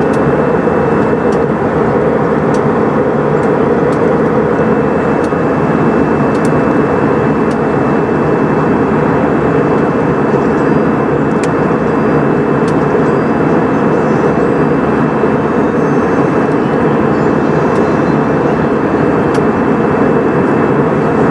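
Steady engine and airflow noise of an Airbus A320 heard from inside the passenger cabin: an even rush with a faint high whine over it.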